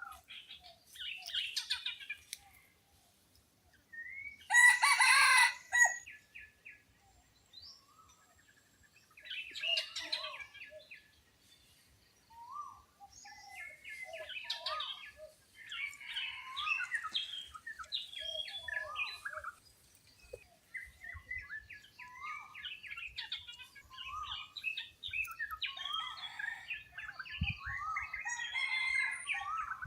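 Red junglefowl calling: one loud crow about four and a half seconds in, then a run of many short high chirps and lower clucks, typical of a jungle hen with her chicks.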